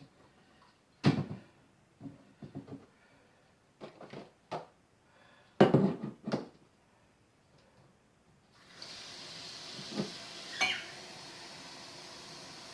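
Kitchenware being handled: several knocks and clatters of a pot or kettle and dishes. Then, about nine seconds in, a steady hiss begins as water is set to heat for coffee, with two more knocks near the end.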